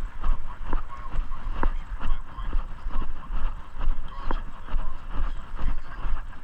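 Footsteps at a steady walking pace, about two a second, over a low rumble, with a few sharp clicks in between.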